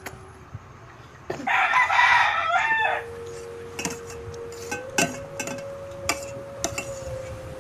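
A rooster crowing once, loudly, starting about a second and a half in and lasting about a second and a half. It is followed by a steady hum and a few sharp clicks.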